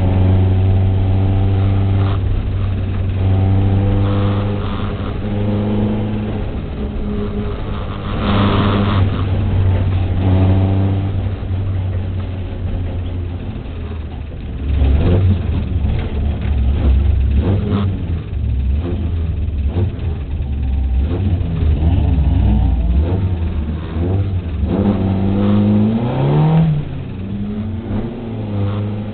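Volkswagen race car's engine heard from inside the cabin, revving up and down through the gears as it is driven hard on a circuit. The pitch climbs and falls repeatedly, with a quick rise in revs near the end.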